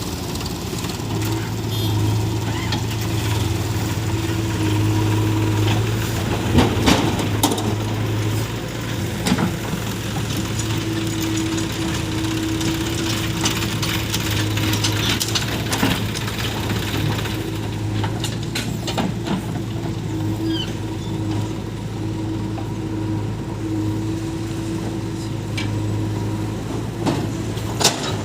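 Diesel engine of heavy loading machinery running steadily at an even speed, with a few sharp clanks and thuds scattered through, typical of a backhoe bucket dumping mud into a tractor trolley.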